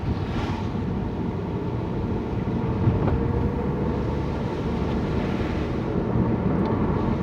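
Steady engine and tyre noise of a car being driven along a road, a low even rumble.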